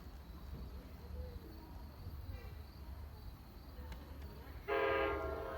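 Train horn sounding a single steady blast that starts suddenly near the end, over a low background rumble.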